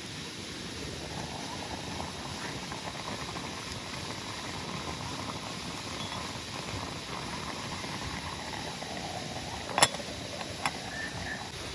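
A steady watery hiss, with a sharp knock a little under ten seconds in and a lighter one just after.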